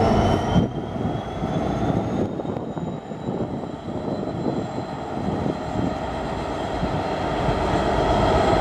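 Class 66 diesel-electric locomotive's two-stroke V12 engine working hard as it pulls away, with a high turbocharger whine that rises slightly in pitch over a low rumble. The sound grows louder toward the end.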